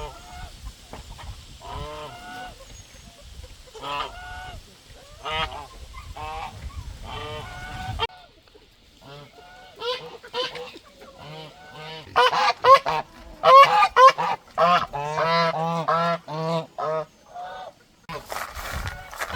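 Domestic waterfowl honking in a run of short repeated calls, growing louder and more crowded in the second half before stopping shortly before the end.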